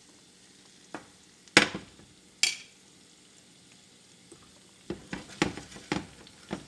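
Sliced garlic and green onions frying in hot oil in a nonstick frying pan: a faint steady sizzle broken by sharp crackles, two loud ones in the first few seconds and a quick run of smaller pops near the end.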